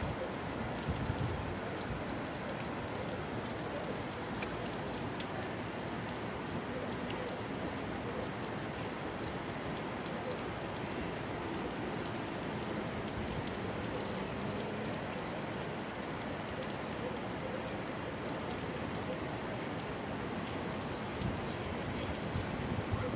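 Steady rain falling, with individual drops pattering on surfaces.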